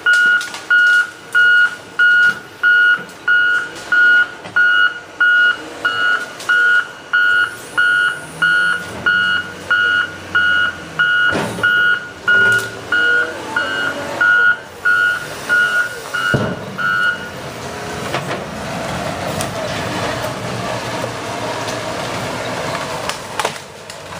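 Backup alarm on a piece of heavy equipment beeping steadily, about three beeps every two seconds, with a couple of sharp knocks. The beeping stops about seventeen seconds in, and the machine then goes on with a steady engine and working noise.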